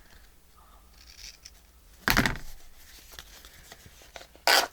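Paper and fabric being handled on a craft table: a thump about two seconds in and a brief, sharp rustle near the end.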